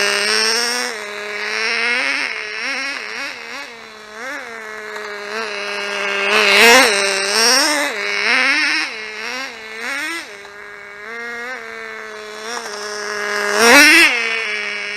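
Small model engine of a 1/16-scale RC car idling, revved in short throttle blips about once a second. It gives two bigger, louder revs, about seven seconds in and again near the end.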